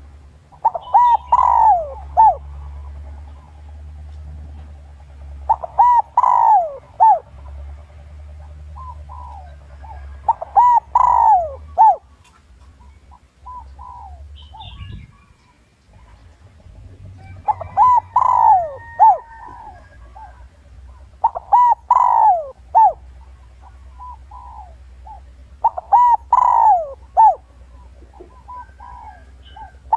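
Male spotted dove calling: its crowing phrase of a few descending coos, about a second and a half long, repeated every four to five seconds. This is the territorial call that bird keepers play as a decoy to draw wild males in to fight.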